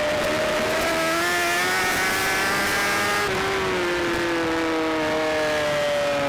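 BMW S1000RR's inline-four racing engine under wind rush, its note rising under acceleration for about three seconds, then dropping and falling away steadily as the bike slows.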